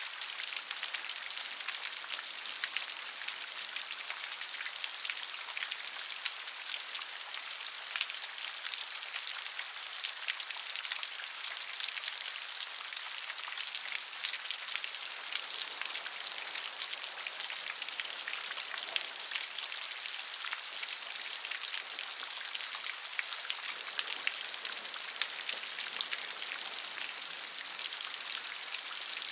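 Steady rain, a dense hiss of many fine drops pattering on a surface.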